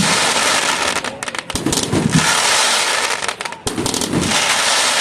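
Fireworks display going off: a dense, continuous crackle of bursting shells with a few lower bangs, easing briefly twice.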